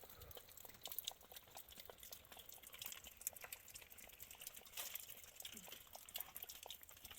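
Faint water dripping: many small, irregular drips.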